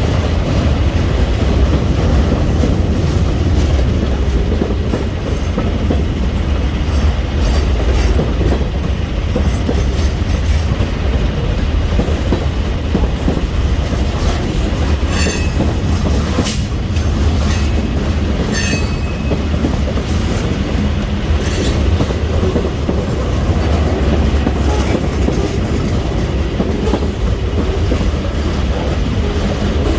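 Freight train cars rolling past close by: a steady low rumble of wheels on rail with clatter, and several short, high wheel squeals starting about halfway through.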